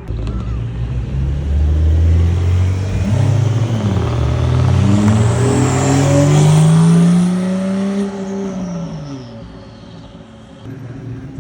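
A car engine accelerating past, its pitch climbing steadily for several seconds and loudest about two-thirds in, then dropping away and fading as it passes.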